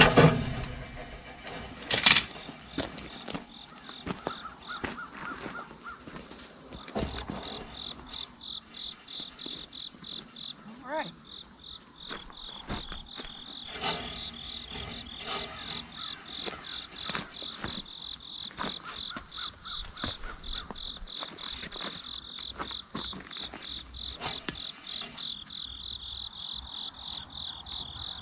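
Insects chirping in a steady, rapid, even pulse. The chirping sets in about a quarter of the way through and goes on without a break. A couple of sharp knocks or clinks come near the start.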